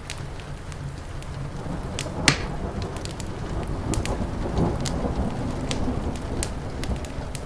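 Wood fire crackling with sharp pops, the loudest about two seconds in, over a steady hiss of rain. A low rumble of distant thunder swells through the middle.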